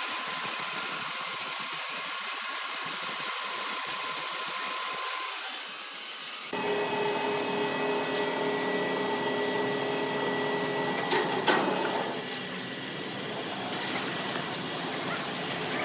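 Wood-processing machinery running steadily with a hissing, motor-like noise. About six seconds in it switches abruptly to a different steady machine hum, with a couple of sharp knocks a few seconds later.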